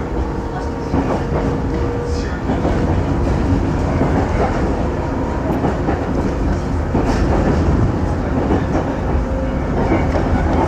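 Train running at speed, heard from inside the carriage: a steady rumble with wheels clacking over the rail joints.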